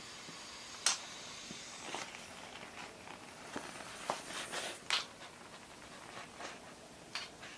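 Faint crinkling and crackling of a thin vinyl inflatable toy balloon being handled, with scattered small clicks, the sharpest about a second in.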